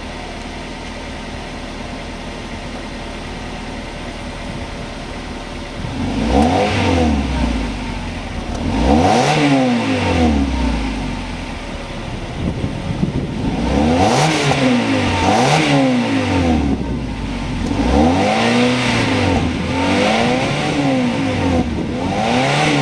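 A 2011 Mazda3 s's 2.5-litre four-cylinder engine heard through its stock exhaust. It idles steadily, then from about six seconds in it is blipped several times, each rev rising and falling back in pitch, some in quick pairs.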